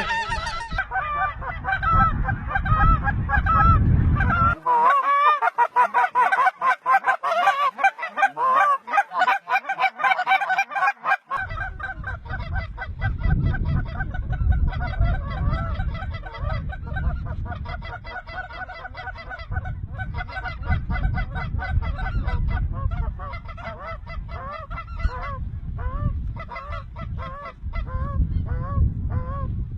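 A large flock of geese calling, many honks and yelps overlapping without a break. Wind rumbles on the microphone, dropping away for several seconds near the start.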